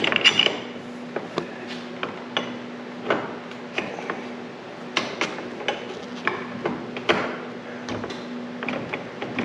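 Scattered metal clicks and knocks of parts and tools being handled while a shock tower mount is lined up against the shock holes, over a faint steady hum.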